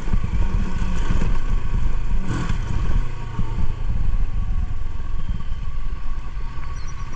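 Motorcycle engine running steadily while being ridden, with a short noisy burst about two and a half seconds in.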